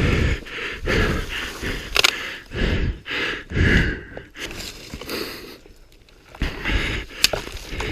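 A man breathing hard, heavy puffing breaths about one a second close to the microphone, out of breath from exertion. Two sharp clicks, one about two seconds in and one near the end.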